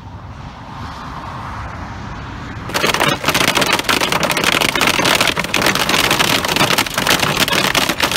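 Low wind rumble on the microphone, then about three seconds in a sudden switch to heavy hail clattering densely on a vehicle's roof and windshield.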